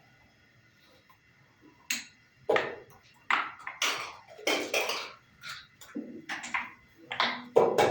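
Backgammon checkers and dice clacking on a wooden board, a quick series of sharp hard clacks about twice a second that starts about two seconds in.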